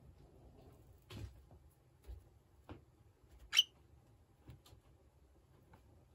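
Scattered light taps and clicks, a few seconds apart, the sharpest and loudest about halfway through.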